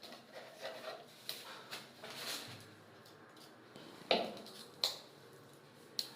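Scattered light clicks and knocks of tools and parts being handled, with a sharper knock about four seconds in and two more near five and six seconds.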